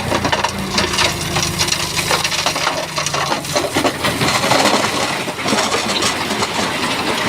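Shantui bulldozer pushing rock: a dense run of stones clattering and crunching against each other and the blade. Under it the dozer's diesel engine hums steadily, fading out about three and a half seconds in.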